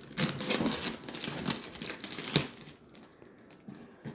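Packaging crinkling and tearing as a taped gift parcel is pulled open by hand, dense for the first two and a half seconds with a sharp snap, then quieter rustling.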